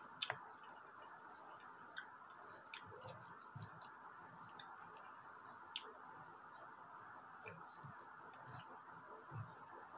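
Close-up eating sounds: irregular wet smacks and clicks of chewing, with soft squelching as bare fingers work rice and sauce, over a steady faint hiss.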